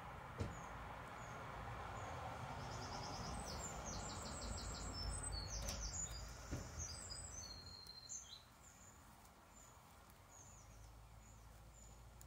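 A songbird singing outdoors: a fast run of repeated high notes in the middle, with fainter single chirps before and after. A few light clicks of plastic building bricks being handled, the sharpest about half a second in.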